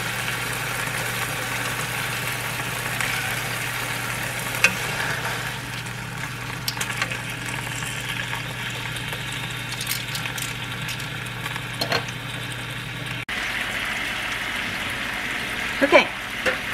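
Chicken breasts frying in oil in a skillet, a steady sizzling hiss, with a few sharp clicks of metal tongs against the pan.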